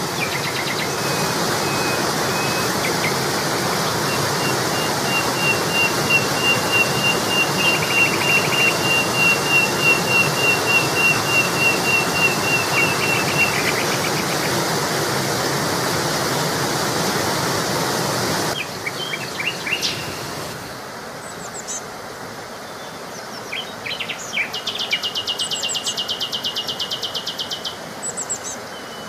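Songbirds calling and singing: a long run of evenly repeated high chirps over a steady rushing noise, which cuts off suddenly about two-thirds of the way through. After it come scattered short calls and a fast, buzzy high trill near the end.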